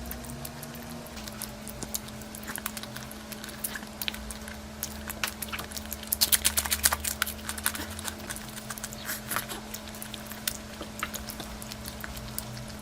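Close-miked eating sounds from a person eating curry: wet chewing, smacking and clicking mouth noises, thickest about six to seven seconds in, over a steady low hum.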